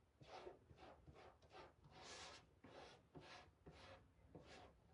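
Faint, repeated soft scratchy strokes, roughly two a second: a stencil brush working paint onto a surface through a stencil.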